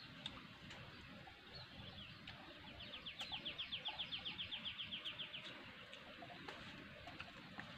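A bird calling in a rapid trill of short, evenly repeated high notes, about nine a second, starting about three seconds in and lasting roughly two and a half seconds, over faint scattered ticks and rustles.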